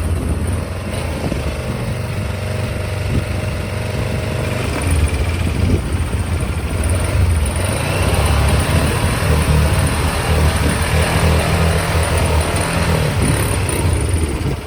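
Kawasaki KLE500 motorcycle's parallel-twin engine running steadily, getting louder about five seconds in.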